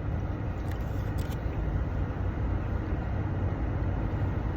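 Steady low engine rumble with an even background hum, with a few faint ticks about a second in.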